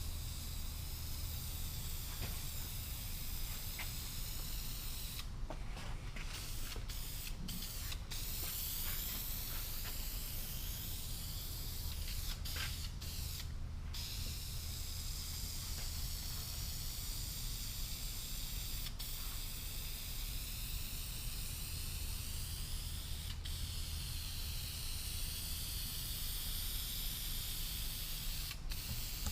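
Aerosol can of filler primer spraying: a steady hiss from the nozzle, let off for a split second a few times, over a low steady hum.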